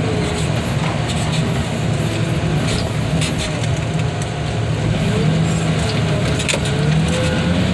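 A heavy engine running steadily at low speed, with a few light clicks over it.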